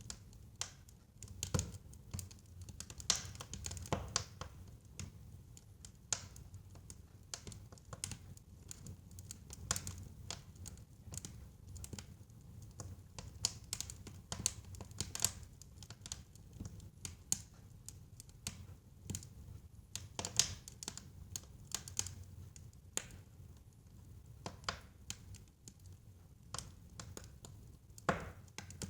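Wood fire burning in a fireplace: irregular sharp crackles and pops, a few much louder than the rest, over a faint low rumble of the flames.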